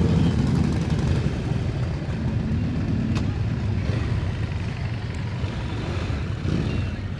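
Motorcycle engine running steadily at low speed, a low rumble with road and traffic noise.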